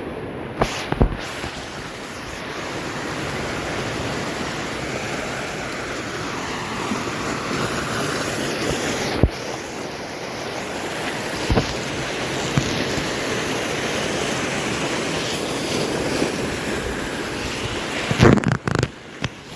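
Ocean swell waves surging and washing in a steady rush, with wind on the microphone. A few sudden knocks cut through, several close together near the end.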